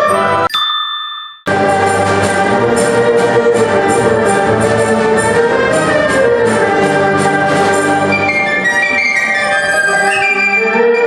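Chinese traditional orchestra playing live. About half a second in the music cuts off, leaving one fading note. It comes back abruptly about a second later with a steady pulse of sharp strokes under the ensemble.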